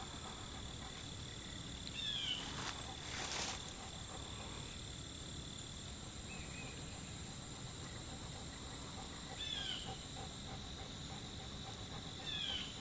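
Steady chorus of crickets and other insects, a continuous high-pitched trill. A bird gives short falling call notes three times, about two seconds in, near the ten-second mark and near the end, and a brief rustle sounds about three seconds in.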